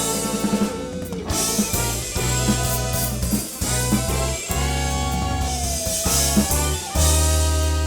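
Live band with drum kit, guitar and bass playing an instrumental ending in short stabs. About seven seconds in it lands on a loud final chord that is held and rings out.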